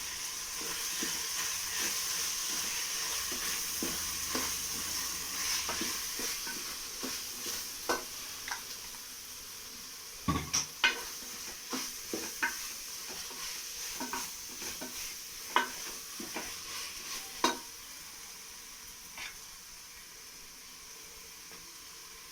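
Ginger-garlic paste frying in ghee with onions and tomatoes, sizzling as it is stirred in the pan. From about ten seconds in, the spoon knocks against the pan a dozen or so times, and the sizzle dies down near the end.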